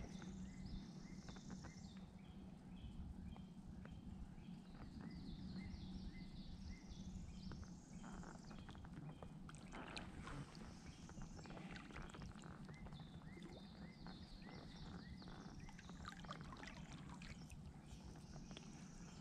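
Birds singing in the surrounding woods: repeated phrases of short, high chirping notes, with a second, lower-pitched series of quick chirps between them, over a faint steady background of wind and water.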